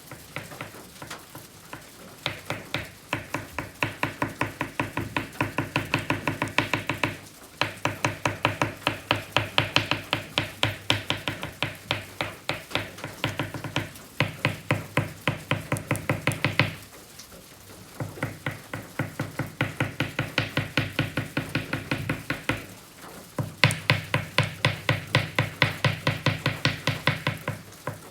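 Oil pastel stick stroking rapidly over kraft paper, about five short scratchy strokes a second, in long runs broken by brief pauses.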